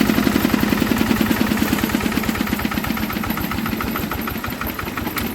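Old Enfield stationary diesel engine running down after being shut off. Its steady beat gets fainter and slower over several seconds.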